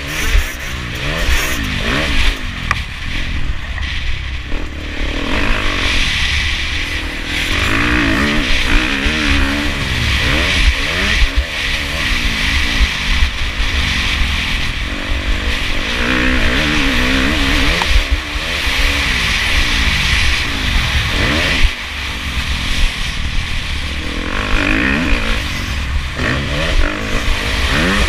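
2017 KTM 350 SX-F's single-cylinder four-stroke engine revving up and down again and again as the bike is ridden hard around a motocross track, with wind noise on the microphone.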